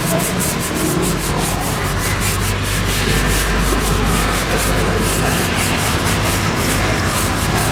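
Steady scrubbing and rubbing on the car during detailing, with a low hum underneath from about a second in until about five seconds.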